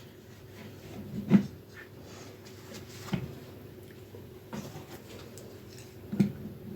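A few scattered light knocks and taps, as of wooden pieces being handled; the loudest come about a second and a half in and near the end.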